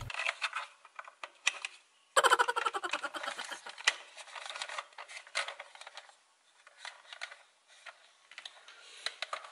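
Hard plastic toy pieces clicking and rattling as a plastic toy cow's body and legs are handled and pressed together. A few scattered clicks at first, a busy run of clicks from about two seconds in, then fewer again.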